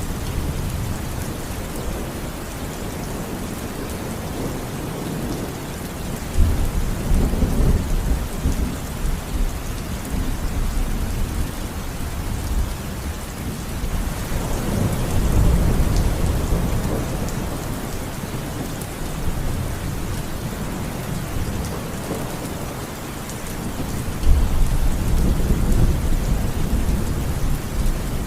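Steady heavy rain with rolling thunder: low rumbles swell up about six seconds in, again near the middle, and once more near the end.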